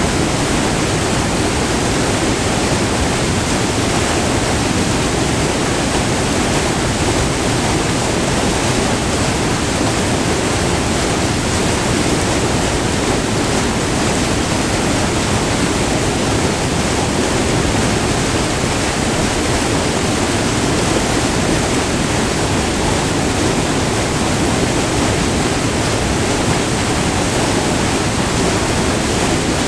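Furnace Falls, a short multi-tiered waterfall on the Irondale River, rushing steadily as white water pours over the rocks.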